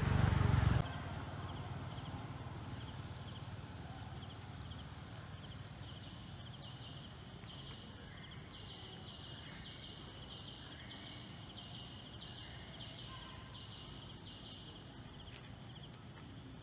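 Outdoor forest background with an animal calling in short, high, buzzy chirps, about two a second, growing more regular in the middle of the stretch over a faint steady high hum. A louder low sound cuts off abruptly under a second in.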